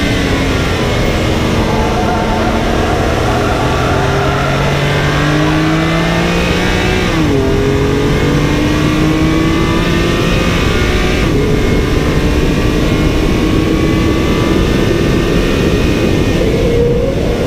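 BMW M car's engine accelerating under load, its pitch climbing slowly and dropping sharply once with a gear change about seven seconds in before climbing again, over a steady rushing noise.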